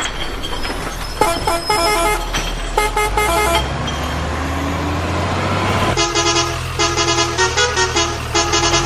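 Vehicle horn sounding in runs of short, quick notes over a steady low engine rumble.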